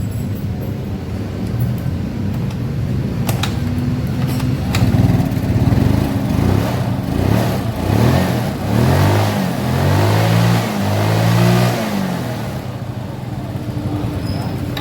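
Yamaha Mio Soul scooter's small single-cylinder four-stroke engine running after being kick-started, revved in a series of throttle blips from about halfway in, then dropping back lower near the end. The scooter has a loose intake manifold bolt letting in air, the cause of its hard starting.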